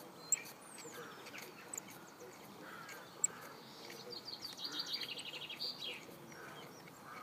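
Birds chirping and singing in the background, with a falling whistle early on and a fast, even trill of high notes around four to six seconds in. Two sharp clicks stand out, just after the start and about three seconds in.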